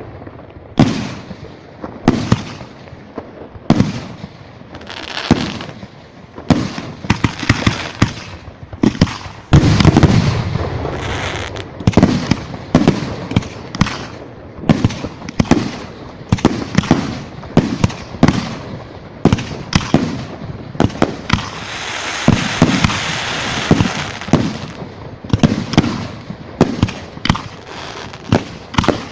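Fireworks display: shells bursting one after another in an irregular quick series, each bang trailing off in a rolling echo. About two-thirds of the way through comes a couple of seconds of dense crackling.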